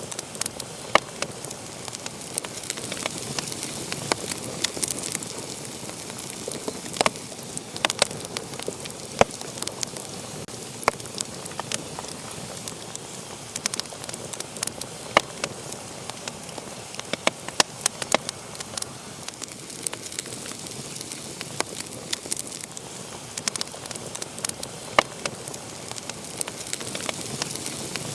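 Wood fire crackling and popping steadily, with irregular sharp snaps over a soft hiss of burning.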